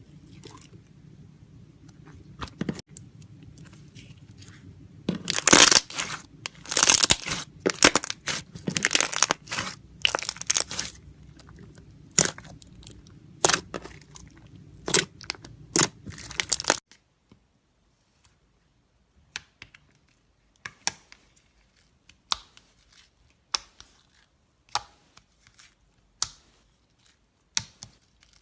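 Slime being worked by hand, giving runs of quick sharp pops and clicks, densest in the first half. About seventeen seconds in the low background hum cuts out and only scattered single pops remain.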